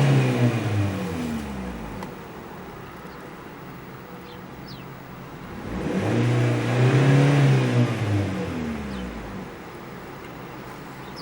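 2013 Chery Tiggo's engine free-revving while parked: a rev falls back to idle at the start, the engine idles for a few seconds, then is revved up once more about six seconds in, held briefly, and drops back to idle.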